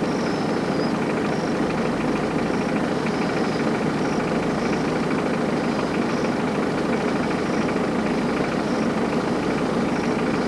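Safari jeep's engine running steadily, heard from inside the vehicle.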